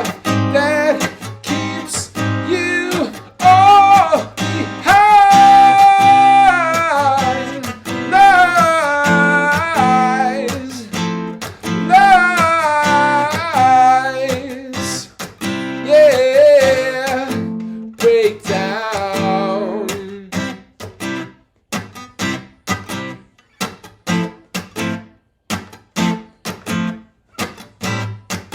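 Martin GPCPA4 acoustic-electric guitar playing an instrumental passage: a strummed chord part under a melodic line that slides and wavers. After about two-thirds of the way in, the line drops out, leaving only short, evenly repeated strummed chord hits.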